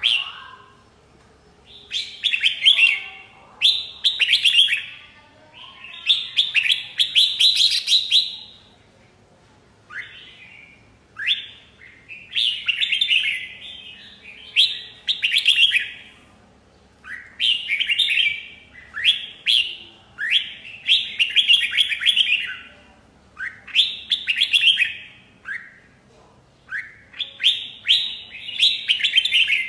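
Red-whiskered bulbul singing: a string of loud, quick warbling phrases, each a second or two long, repeated with short pauses between them.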